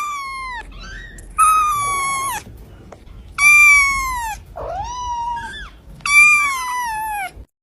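A pet animal giving five long, high-pitched cries in a row, most of them sliding down in pitch.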